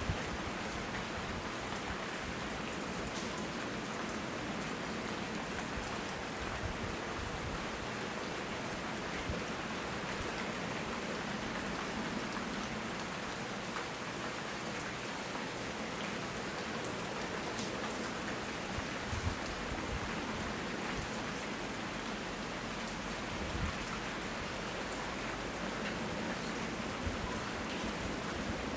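Steady tropical rain falling, an even hiss with scattered individual drop ticks.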